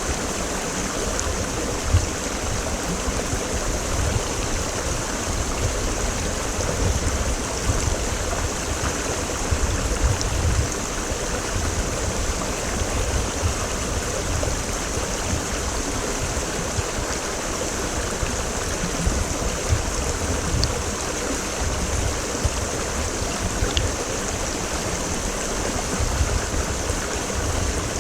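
Mountain creek (quebrada) water rushing and splashing over rocks in a steady, continuous wash, with a low rumble underneath.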